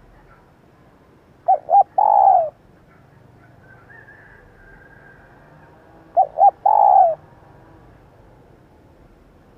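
Female spotted dove cooing: two calls about four and a half seconds apart, each two short notes followed by a longer, falling note.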